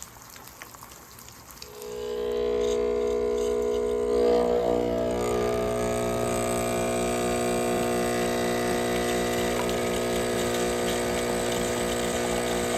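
Espresso machine pump pulling a shot: a steady droning hum with a faint regular pulse starts about two seconds in and holds.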